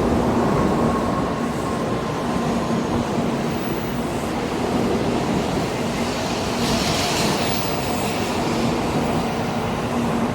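N700A Shinkansen train running with a steady rumble and a low, steady hum, and a brief hiss about seven seconds in.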